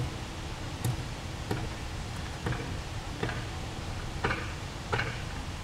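A cannon ramrod knocking as a charge is rammed down a muzzle-loading cannon's bore: about six short, sharp knocks at uneven intervals.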